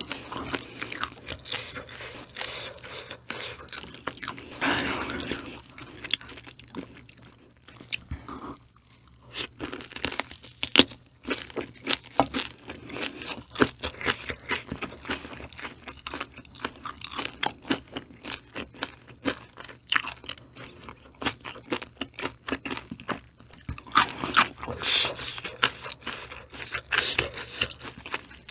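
Close-miked eating: crunchy chewing of food, a dense run of small crackles and clicks with a few louder noisy stretches.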